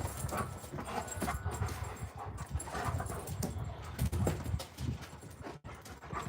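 Two Alaskan malamute puppies playing rough, with irregular scuffling thumps and dog vocal noises throughout.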